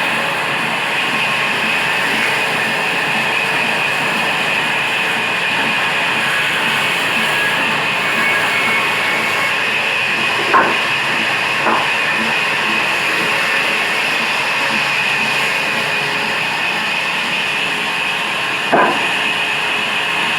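Diesel engine driving a timber saw machine, running steadily with a loud, even mechanical noise. A few sharp knocks stand out, two about halfway through and one near the end.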